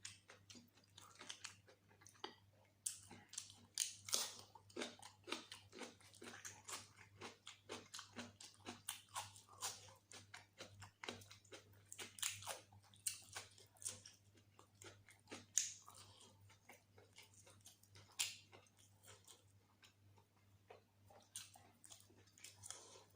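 Close-miked chewing and biting of mutton curry and rice: a dense run of short clicks and smacks from the mouth, over a faint steady low hum.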